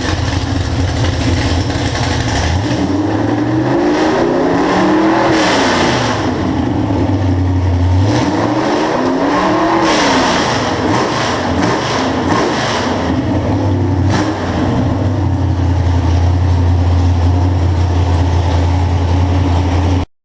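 Ford 351 V8, a 400 hp build, running on an engine dyno. It is revved up and back down three times, about 4, 9 and 12 seconds in, with steady running between, and the sound cuts off abruptly at the end.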